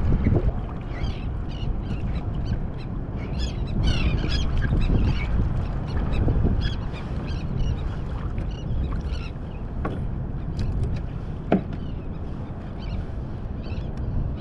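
Wind and water noise rumbling on the microphone, with scattered short high squeaks and a few sharp clicks.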